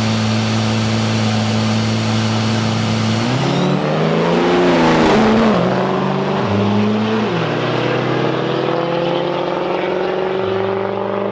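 Turbo-diesel drag trucks launching down the strip. For about three seconds the engines hold steady revs at the line with a high turbo whistle. Then the whistle sweeps up and the engine note climbs, drops and steps through gear changes before settling into a steady climbing pull.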